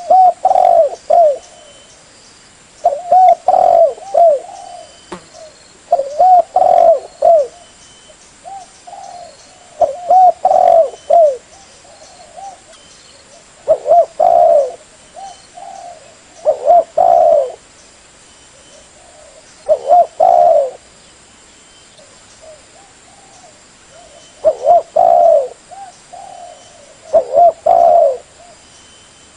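Spotted dove cooing: a phrase of several coos repeated about every three seconds, with short quiet gaps between phrases.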